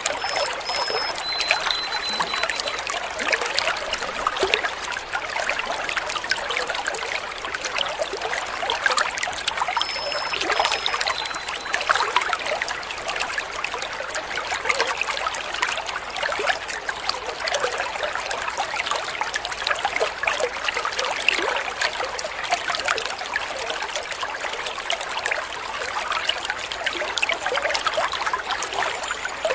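Water trickling and babbling steadily in a stream. A faint two-note bird whistle, a high note then a lower one, comes twice: near the start and about ten seconds in.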